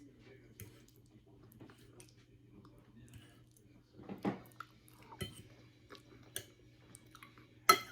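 Lasagna being chewed: quiet chewing and lip-smacking with a few sharp clicks, louder once about four seconds in and again near the end.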